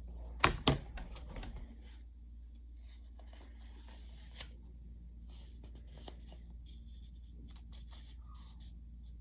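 Two sharp taps near the start, then faint scattered rustling and small clicks over a low steady electrical hum.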